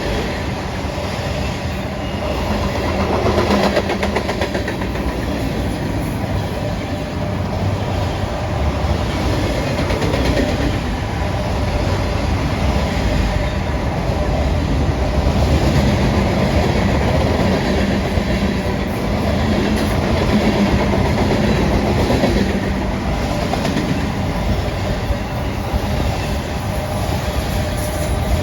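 Freight train rolling past at speed, a steady rumble of cars with the wheels clicking over rail joints.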